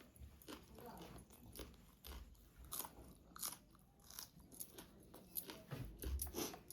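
A person chewing and biting food close to the microphone, with irregular crisp crunches a few times a second.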